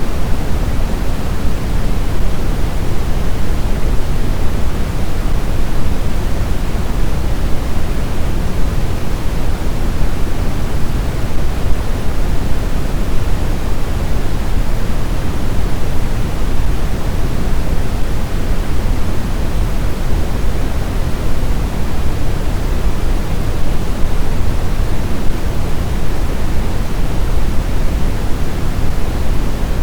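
Steady blizzard wind: an even, low rushing noise with no distinct gusts or howls.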